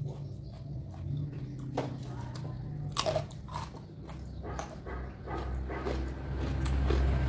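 Close-up biting and chewing of crunchy food, a string of sharp crunches, the loudest about three seconds in, over a low steady hum.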